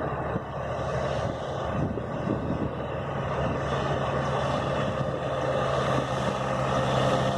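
4x4 vehicle's engine running steadily with a low hum, growing slightly louder.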